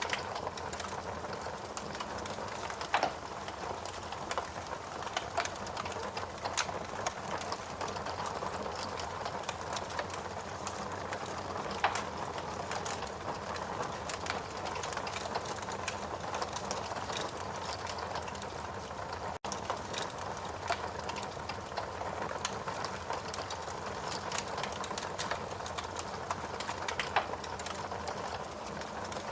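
Wood fire burning in a fireplace, crackling steadily with many small snaps and a few louder pops.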